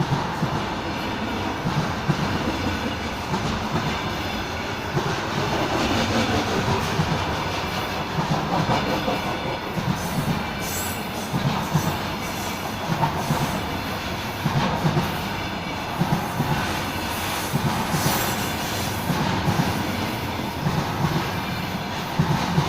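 Freight train of container wagons rolling past, wheels clattering over rail joints in a steady, repeating clickety-clack. A few brief high-pitched wheel squeals come through around the middle and again later on.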